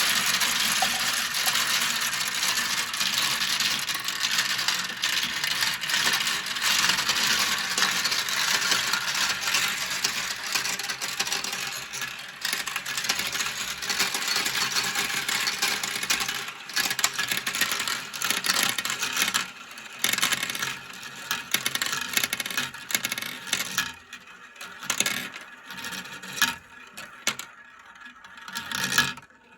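Many marbles rolling and clattering down plastic marble-run slopes in a dense, steady rattle. The clatter thins out over the last several seconds into separate clicks and short rattles as fewer marbles are left running.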